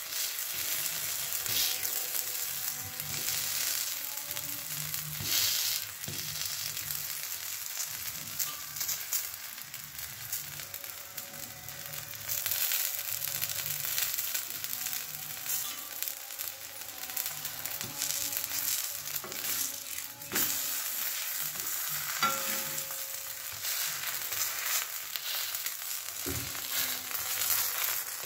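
Stuffed paratha sizzling steadily on a hot iron tawa as it fries.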